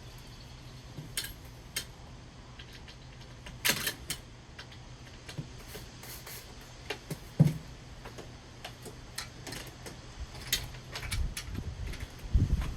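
Scattered metal clicks and taps from hand work on a door-slide bracket and its screws, with two louder knocks about four and seven and a half seconds in and a run of low thumps near the end.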